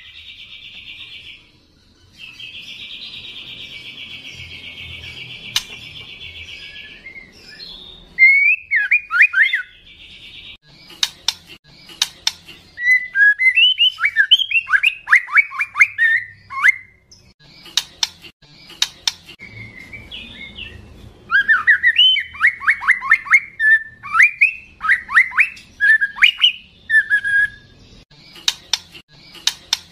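Young white-rumped shama (murai batu, in its speckled juvenile 'trotol' plumage) singing loudly. A long buzzy trill runs for the first seven seconds or so. After that come repeated bursts of rapid, sharp falling whistled notes, with occasional sharp clicks between phrases.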